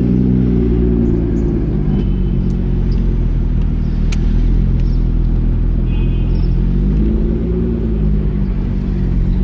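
Lotus Evora's V6 engine under way, heard from inside the car. Its note rises and falls with the revs near the start and again about seven seconds in, over a steady low rumble.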